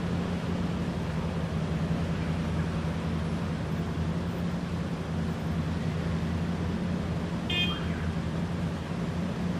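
Cars idling in stopped traffic, a steady low engine hum. A brief high beep comes about seven and a half seconds in.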